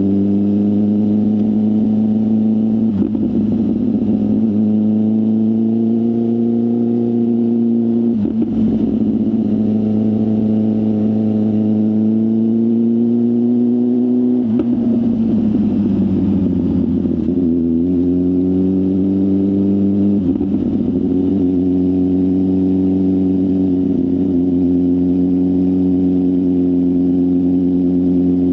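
BMW S1000RR's inline-four engine with a full exhaust system, running steadily under way at a fairly constant pitch. The sound breaks off briefly a few times and dips in pitch about halfway through before settling again.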